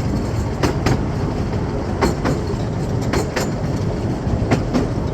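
Miniature railway train running along its track, a steady rumble with wheels clicking over the rail joints in quick pairs about once a second.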